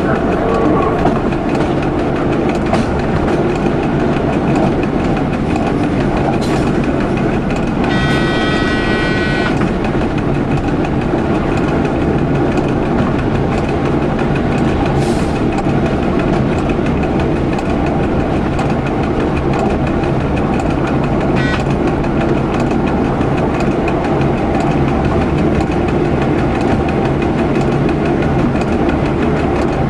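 Local train running along the track, heard from inside the driver's cab: steady engine and rail noise. The horn sounds once for about a second and a half, about eight seconds in.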